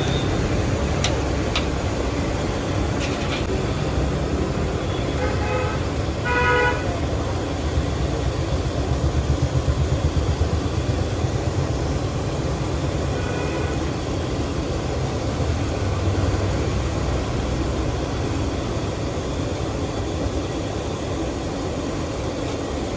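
Street traffic: a steady rumble of engines, with vehicle horns honking, once about six seconds in and again about halfway through.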